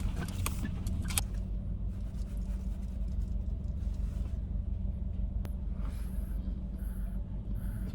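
SsangYong Tivoli's engine running steadily, a low even rumble heard from inside the car's cabin, with a single light click about five seconds in.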